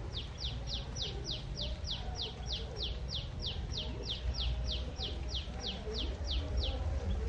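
A bird calling a long, even series of short whistled notes, each falling sharply in pitch, about three a second, stopping shortly before the end.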